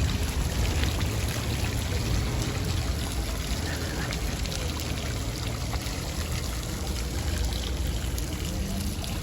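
Water pouring or running steadily, with a low rumble underneath.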